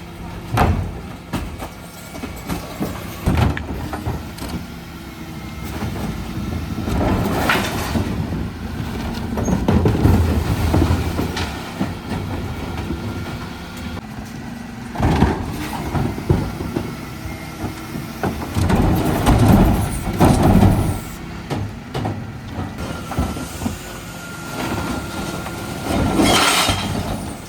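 Dennis Elite refuse truck running on a recycling collection, its engine rumbling steadily under repeated loud clattering and banging surges from the bin-lifting and loading work.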